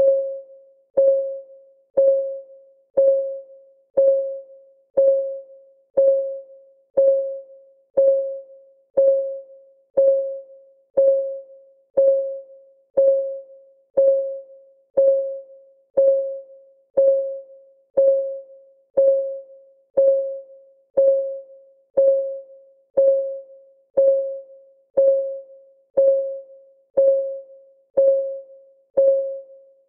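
Clock ticking sound of a countdown timer: one steady tick each second, each a sharp click with a short pitched ring that dies away.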